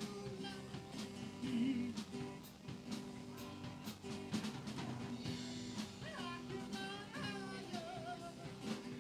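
Live band playing rock or country with electric guitar and a drum kit keeping a steady beat; a voice or lead line comes in briefly past the middle.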